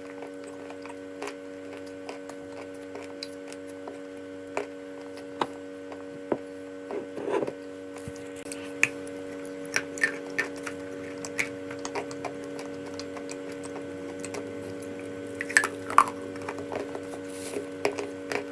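Chalk being bitten and chewed close to the microphone: scattered sharp crunches and clicks, a louder cluster about two-thirds of the way in, over a steady electrical hum.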